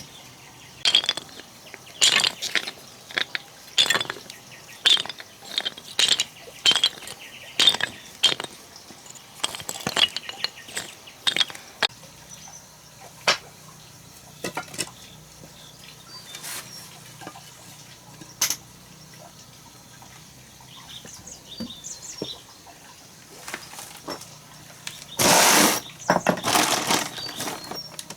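A series of sharp knocks, about one every half second to a second, thinning out after about twelve seconds, then a longer noisy burst near the end.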